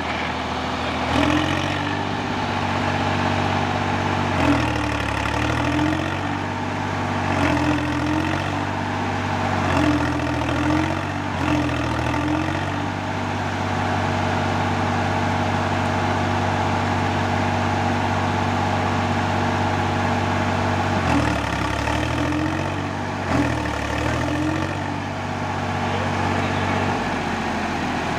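Swaraj tractor diesel engine running, its pitch dipping and picking up again several times as the throttle is worked, steady through a long stretch in the middle.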